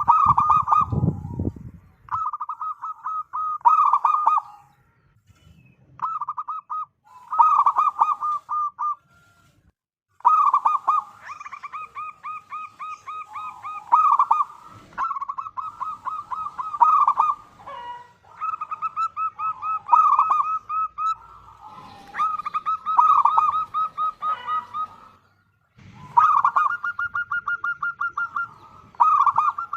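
Zebra doves (perkutut) singing in repeated phrases of rapid, evenly pulsed cooing notes, each phrase lasting one to three seconds with short pauses between, sometimes overlapping. This is the active, full song ('gacor') of a local-type bird.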